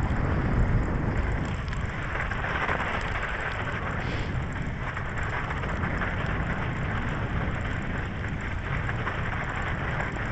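Electric bike being ridden over rough, frozen ground: a steady crackling rolling noise from the tyres and frame, with low wind buffeting on the microphone.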